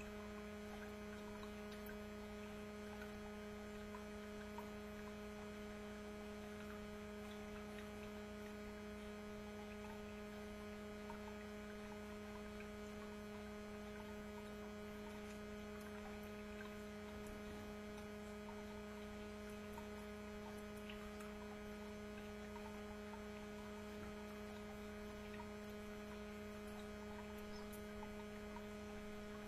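Steady electrical hum: a constant low drone with a couple of fainter higher tones above it, unchanging in level, with a few faint small ticks.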